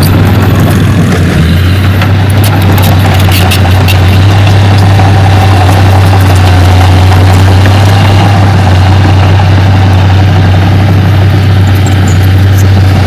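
Heavy diesel earthmoving machine running steadily at close range, a constant low drone, with scattered light clicks and clanks.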